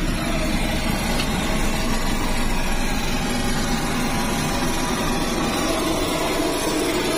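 Walter M601 turboprop engine of an L-410 UVP Turbolet running steadily at a constant setting: an even, continuous noise with faint steady tones in it.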